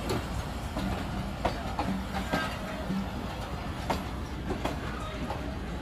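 A train moving along the track: its wheels clack over rail joints in irregular sharp clicks above a steady low rumble.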